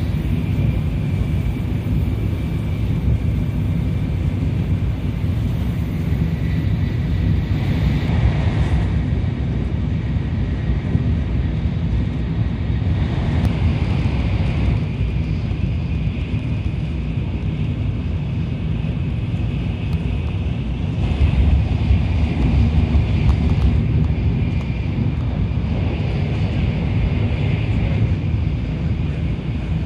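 Tokaido Shinkansen train running at speed, heard from inside the passenger cabin: a steady low rumble of wheels and air with gentle swells and a faint high whine.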